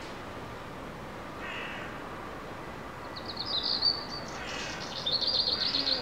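An unidentified bird singing: harsh, scratchy notes alternate with rapid high trills, and the trills are the loudest part.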